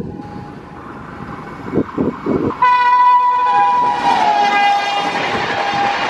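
Express train's horn sounding one long loud blast whose pitch drops partway through as the locomotive passes, over the growing rush of the train running at speed.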